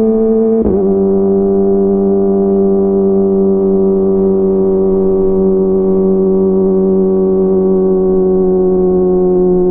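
Kawasaki ZX-25R's 249 cc inline-four running through a DX Generation GPR full-system exhaust while riding at a steady cruise. There is a short break in the note just under a second in, then a steady exhaust note that sags slowly in pitch.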